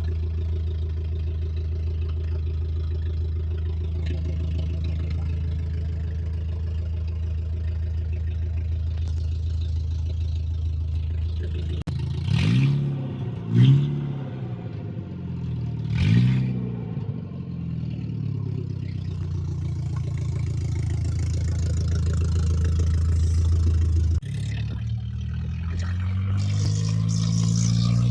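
Engine and catalytic-converter-deleted exhaust of a 2000 Volkswagen Beetle, running steadily. About twelve seconds in it is revved briefly three times, each rev rising and falling. It settles back to a steady drone, then climbs in pitch near the end.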